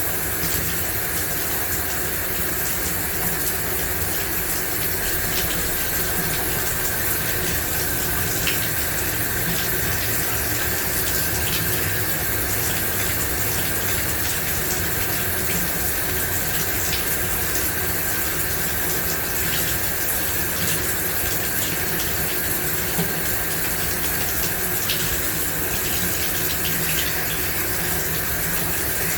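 Shower running steadily, water spraying and splashing down onto the floor of the shower in an even hiss, with faint drips and patters scattered through it.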